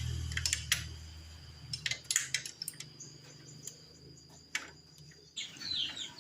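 Intro music fading out, then scattered light metallic clicks and clinks, with birds chirping near the end.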